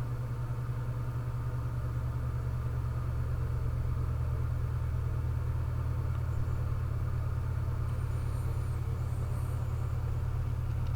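Steady low background rumble, an even hum that does not change.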